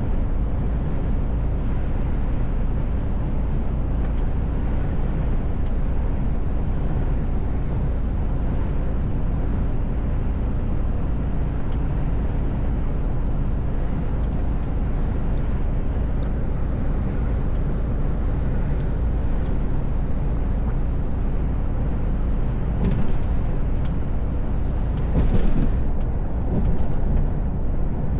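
Mercedes Actros L truck driving, its engine and road noise heard from inside the cab as a steady low rumble with a constant hum. A few brief louder noises come in near the end.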